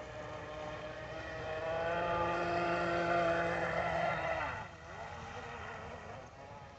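Kyosho Jet Stream RC boat's electric motor whining as it runs across the water. It grows louder about a second and a half in, then its pitch falls and it drops quieter about four and a half seconds in, running on at a lower level.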